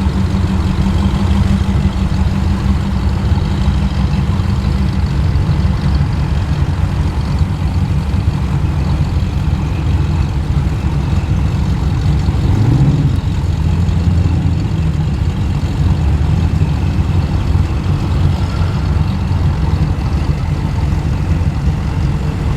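Muscle car engine running slowly at low revs, a steady low rumble, with one short rev about halfway through.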